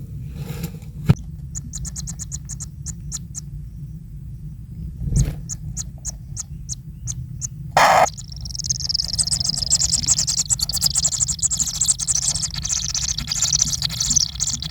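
Kingfisher chicks calling from the nest: quick, high ticking notes at first, then a sudden thump about eight seconds in, after which the chicks break into dense, continuous high-pitched begging chatter.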